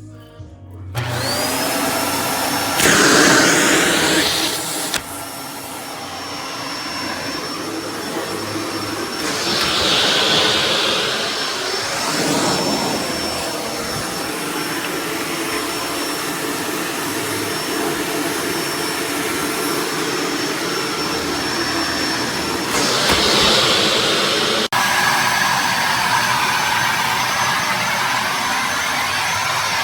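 Kenmore BU4050 bagged upright vacuum switched on about a second in, its motor whine rising as it spins up and then running steadily with a rush of air. The rush swells and eases a few times, and the pitch of the whine shifts abruptly about 25 seconds in.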